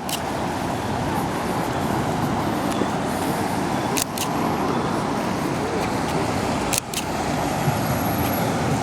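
Steady road traffic noise, interrupted by brief clicks about four and seven seconds in.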